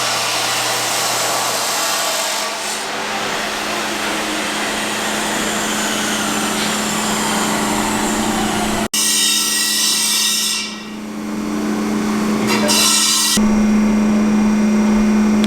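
Power tool working on steel exhaust tubing, a steady harsh grinding noise with a low hum underneath; the sound changes abruptly about nine seconds in and again near the end.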